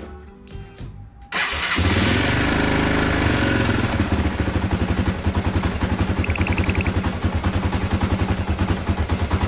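Yamaha Serow 225's air-cooled single-cylinder four-stroke engine started on the electric starter about a second in. It catches at once, runs up briefly, then settles into a steady idle with an even, rapid beat. It is now firing again after the pickup coil and generator were replaced to cure a no-spark fault.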